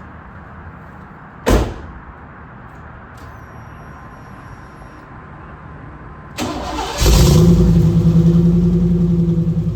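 1991 Camaro's 305 small-block Chevy V8 cranked over and started about six and a half seconds in, then settling into a loud, steady idle through long-tube-style headers, a cat-deleted pipe and a MagnaFlow muffler. A single sharp thump comes about a second and a half in.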